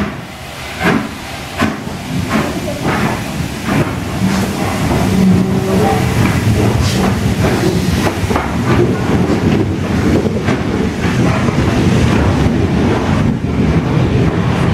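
Steam locomotive working a train: sharp exhaust chuffs that come quicker over the first few seconds, then a steady rumble and clatter of wheels on the rails.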